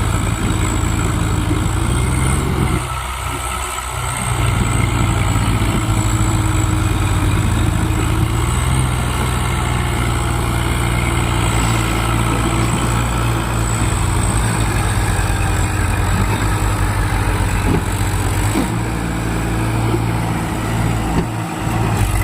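Tractor engine running steadily, with a brief drop in level about three seconds in.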